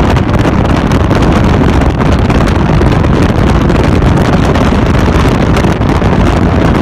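Loud wind buffeting the microphone, a steady rushing roar with constant gusty flutter.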